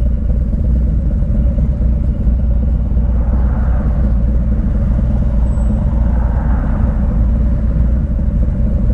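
Harley-Davidson V-twin motorcycle cruising at a steady highway speed: a steady low engine drone with road and wind noise.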